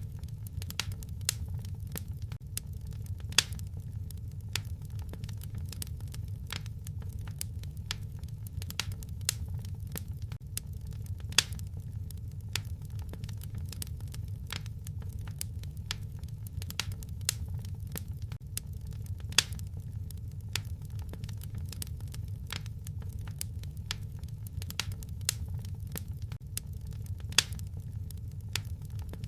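Wood fire crackling in a fireplace: frequent sharp pops and snaps over a steady low rumble of burning, with a louder pop about every eight seconds.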